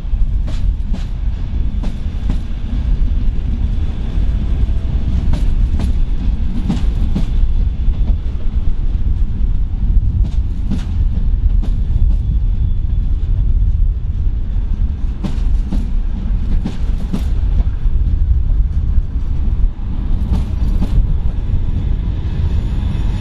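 Train rolling slowly past over a steady low rumble, its wheels clicking over a rail joint in pairs about half a second apart, a pair every few seconds.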